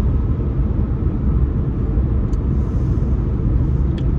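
Steady low rumble of road and engine noise inside a car cabin while driving on a motorway.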